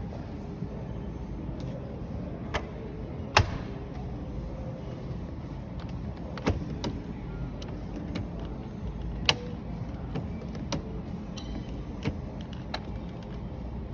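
Display washing machines being handled: a series of sharp clicks and knocks, such as doors and controls being worked, the loudest about three and a half seconds in, over a steady low background rumble.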